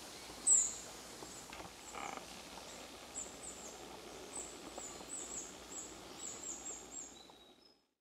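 Thin, very high bird calls, each a short downward-slurred note: one loud call about half a second in, then a run of many quicker calls from about three seconds on, over faint woodland hiss. The sound fades out near the end.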